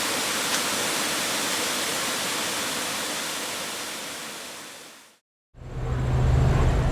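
Waterfall rushing, a steady hiss of falling water that fades out about five seconds in. After a brief cut, a loud low steady hum starts.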